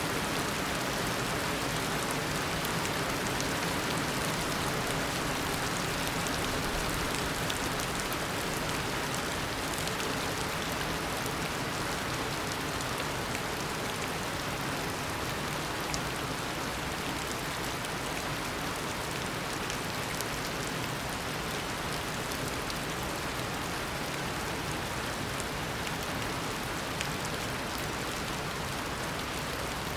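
Heavy tropical rain falling steadily, a dense even hiss with countless small drop ticks.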